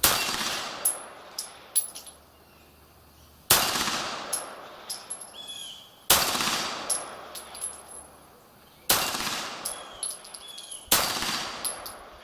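Beretta 92G Elite Compact 9 mm pistol fired five times, slow aimed shots about two to three seconds apart, each with a decaying echo. Between the shots come smaller sharp cracks and brief high metallic rings from the steel falling-plate targets.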